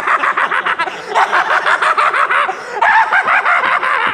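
Men giving a staged, exaggerated evil laugh, a rapid run of 'ha-ha' pulses that breaks off briefly about two and a half seconds in and then starts up again with a wavering pitch.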